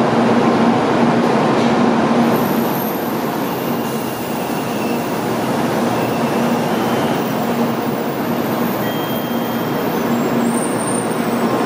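N700 Shinkansen bullet train rolling slowly along the platform, a steady rumble of wheels and running gear with a low hum underneath.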